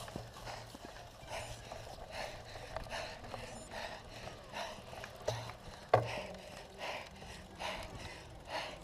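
Cyclocross bike ridden over rough ground: irregular rattles and knocks, with one sharp knock about six seconds in.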